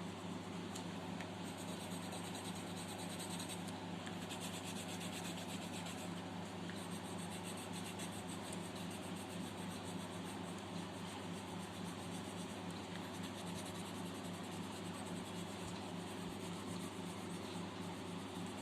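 Pencil shading on paper: a continuous fine, rapid scratching of graphite strokes over a steady low hum.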